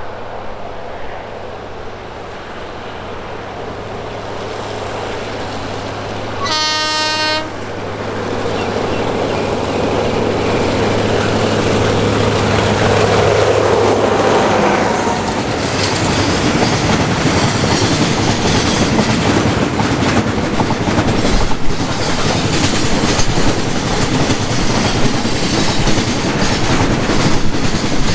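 Alsthom diesel locomotive approaching with its engine running, sounding one horn blast of about a second near seven seconds in. It passes close by about halfway through with its engine note dropping, and a long train of loaded oil tank wagons follows, wheels clattering over the rail joints.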